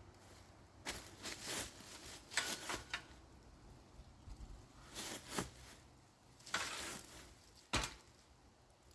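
Irregular footsteps and handling noises: scattered rustles and knocks in short bursts, with one sharp knock near the end.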